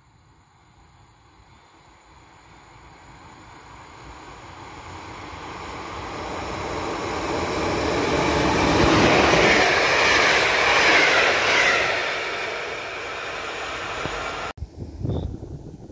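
Locomotive-hauled passenger train approaching and running through the station on the near track, its rumble and wheel-on-rail noise building steadily to a peak as it passes, then easing. The sound cuts off suddenly near the end, followed by wind buffeting the microphone.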